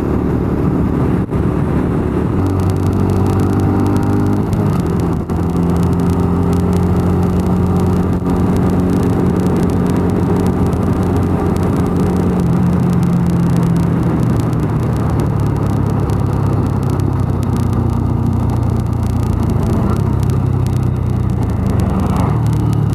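A 125 cc motorcycle's engine running under way, its pitch stepping up and down several times as the rider changes speed and gear. Wind rushes and crackles on the microphone throughout.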